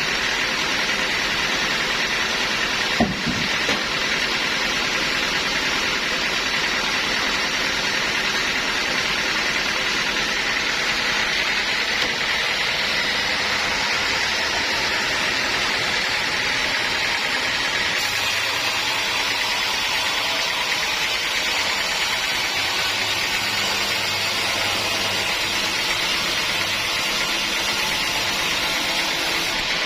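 Sawmill machinery running steadily, a loud continuous mechanical noise with a strong hiss. There is one short knock about three seconds in.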